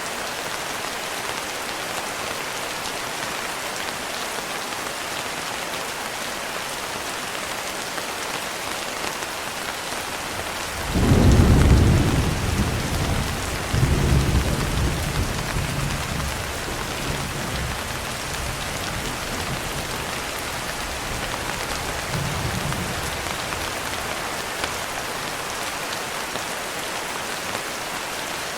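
Steady rain falling, with a thunderclap breaking in about a third of the way through: a sudden low rumble, a second swell a few seconds later, then rolling away over several seconds, with a faint further rumble later on.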